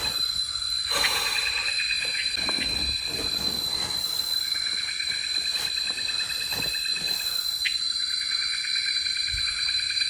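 Night-time rainforest chorus: a steady high-pitched drone with pulsing trills beneath it, and a few faint knocks.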